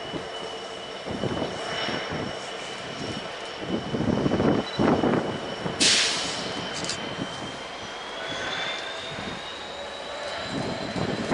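Diesel locomotive passing on the line, its engine running with a rumble that swells and fades, a steady high whine that rises slightly in pitch in the second half, and a sharp hissing burst about six seconds in.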